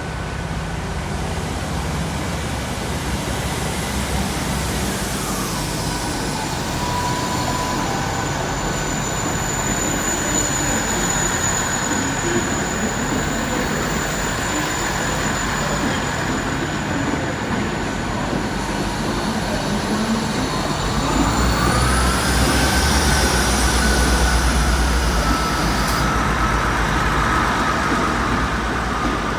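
Two coupled South Western Railway Class 159 diesel multiple units running with their diesel engines droning, then pulling out. About 21 seconds in, the engine note grows louder and deeper, with rising whines from the transmission.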